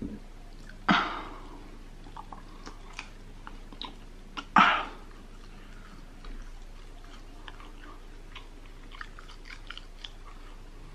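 Close-miked chewing of a soft hotteok pancake, with small wet mouth clicks throughout. There are two louder sharp mouth sounds, about a second in and at about four and a half seconds.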